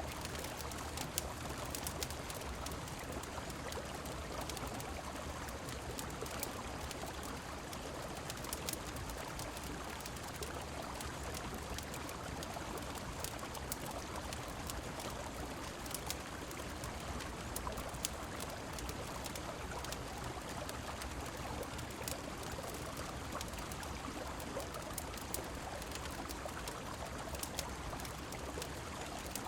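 Steady rush of a flowing river mixed with rain, an even wash of water with scattered sharp ticks over it.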